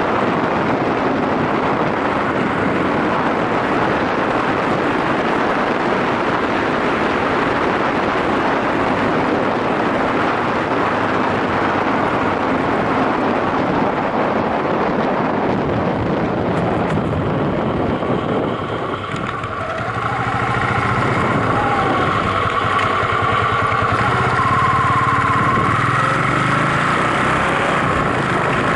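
Yamaha SRX400 single-cylinder motorcycle engine running while riding, with heavy wind noise on the microphone. About two-thirds of the way in, the noise dips briefly, and after that the engine note comes through more clearly.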